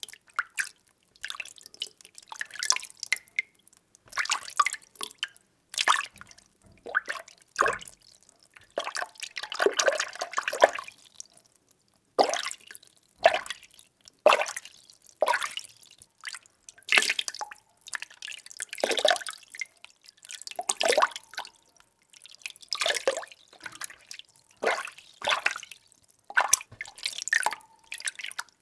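Water being stirred: a run of separate sloshing, splashing strokes, about one every second or two, with short gaps between them.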